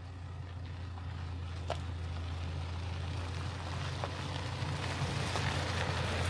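Vehicle driving: a steady low engine and road drone under a hiss of tyre noise that grows louder, with a few sharp ticks.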